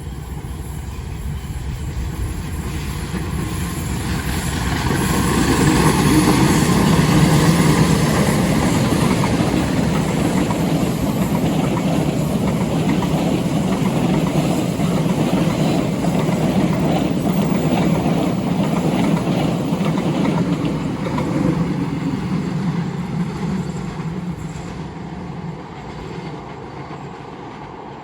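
A long train rolling past, diesel locomotive and wagons together. It grows loudest about six to eight seconds in, then the cars keep rumbling by and slowly fade toward the end.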